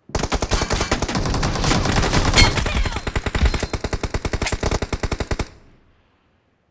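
Video-game automatic gunfire: a long burst of rapid shots, about ten a second, that stops suddenly about five and a half seconds in.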